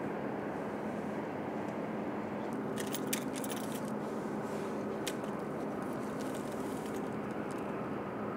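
Stationary electric passenger train humming steadily, with a few faint clicks about three seconds in and one more about five seconds in.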